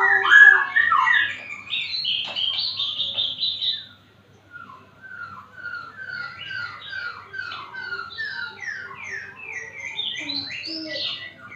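White-rumped shama (murai batu) singing: a loud run of varied whistled phrases, a brief pause about four seconds in, then a quieter series of repeated down-slurred whistles.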